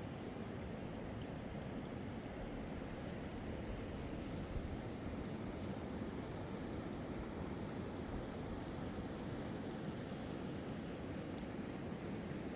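A mountain river rushing steadily, with faint short high chirps of small birds scattered over it.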